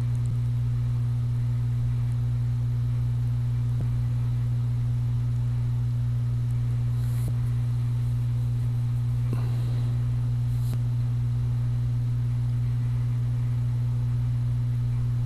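A steady low hum that does not change in pitch or level, with a few faint clicks near the middle.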